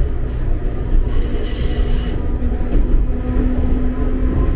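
Enoden electric commuter train running, heard from inside the passenger car: a steady low rumble of wheels on rails, with a brief high-pitched hiss about a second in and a steady hum joining about halfway through.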